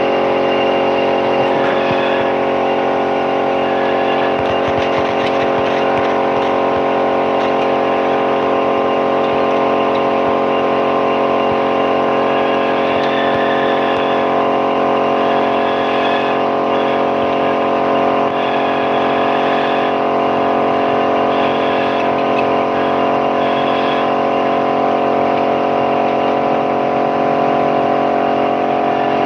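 Vespa PTS scooter's two-stroke single-cylinder engine running steadily at a constant speed, its pitch unchanging.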